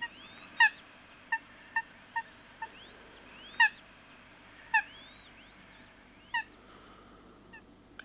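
Water birds calling: a run of short, sharp calls, each dropping slightly in pitch and spaced irregularly, with fainter rising-and-falling whistled notes between them.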